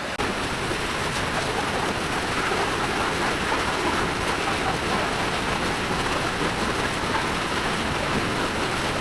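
Steady rushing of a swollen, muddy river in flood, mixed with heavy rain.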